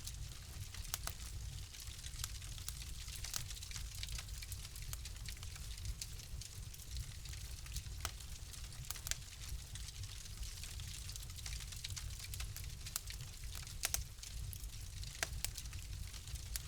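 Fire in a fireplace crackling: frequent irregular sharp pops and snaps over a steady soft hiss and low rumble.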